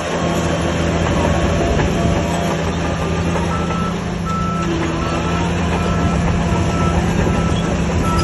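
Heavy earthmoving machine's diesel engine running under load with a clattering rumble. From a few seconds in, its reversing alarm beeps about twice a second, the sign that the machine is backing up.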